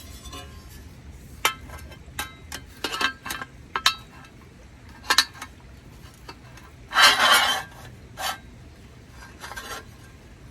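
Metal parts of a small, heavy YOKA solo fire pit clinking and knocking together as they are handled, a dozen or so separate clinks with a longer rattle about seven seconds in.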